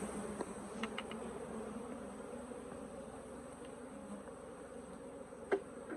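A feral honeybee colony buzzing in a steady hum as it is worked open, with a few light knocks and one sharper knock near the end.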